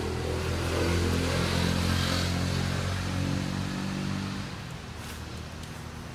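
A motor vehicle's engine running steadily, swelling over the first second or two and fading away about four and a half seconds in.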